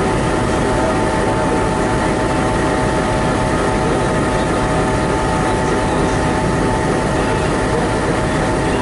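Locomotive running steadily at close range: a loud, even mechanical drone with several steady tones held through it.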